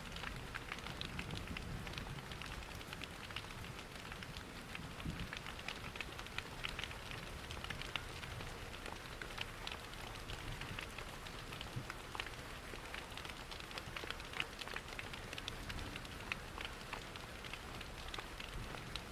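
Ambience mix of steady rain and a crackling wood fire: frequent small sharp ticks and pops over an even rushing hiss with a low rumble underneath.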